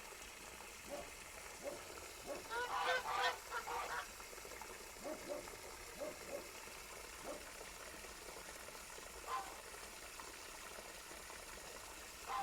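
Geese honking: a quick run of loud calls about three seconds in, then scattered single honks.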